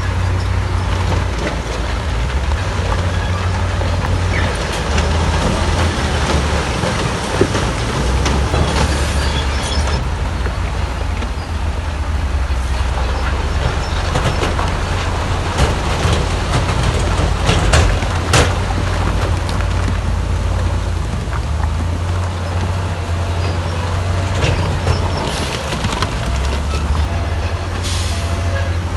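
Heavy earthmoving machinery's diesel engines running with a deep, steady rumble that rises and falls with load. Sharp metallic clanks come about two-thirds through, and short hisses come twice.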